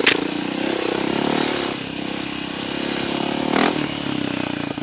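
Dirt bike engine running while riding, its pitch holding fairly steady with small rises and falls, with two sharp clacks, one right at the start and one about three and a half seconds in.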